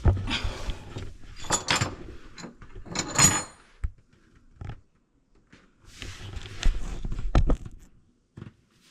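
Knocks, rattles and scrapes of things being handled, in several short bursts with quiet pauses between them.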